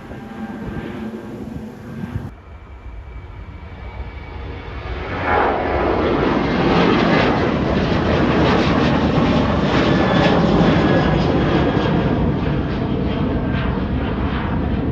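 Departing airliner's engines at takeoff power: a quieter start, then a loud, steady roar swells in about five seconds in and holds.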